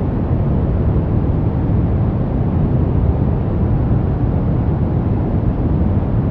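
Steady brown noise: an even, deep rushing hiss, strongest in the low end and thinning toward the highs, with no change.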